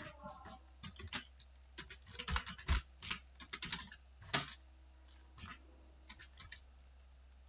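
Typing on a computer keyboard: irregular keystroke clicks, a quick run of them in the middle, then only a few slow keystrokes near the end.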